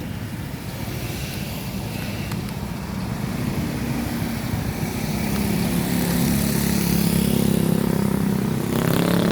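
Road traffic: a motor vehicle engine running and growing louder through the second half, as one passes close by.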